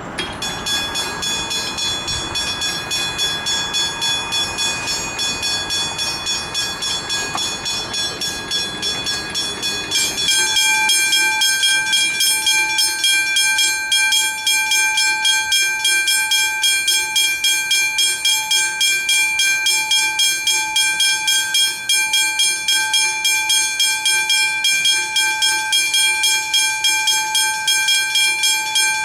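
Railway level crossing warning bells ringing in rapid, evenly repeated strokes; about ten seconds in, a second bell with a lower tone joins and the ringing grows louder.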